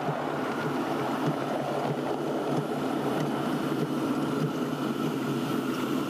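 A miniature railway train running along the track, a steady rumbling noise.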